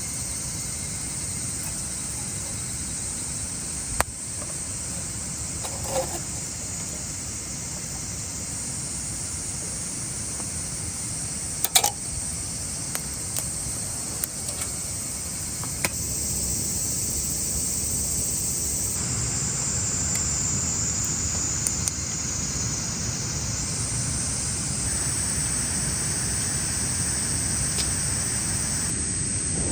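Steady high-pitched chorus of summer insects, with a few isolated sharp clicks, the loudest a double click about twelve seconds in.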